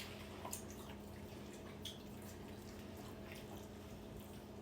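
Faint eating sounds at a table: a few scattered small clicks and taps from cutlery and mouths, over a steady low hum.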